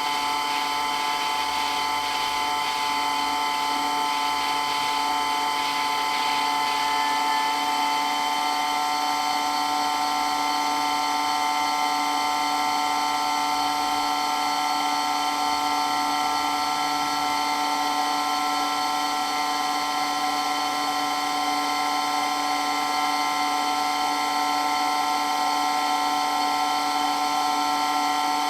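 Water pump running steadily with a constant whine made of several held tones, its level unchanging.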